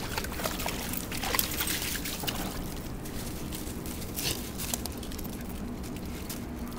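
River water trickling and splashing, with many small irregular splashes.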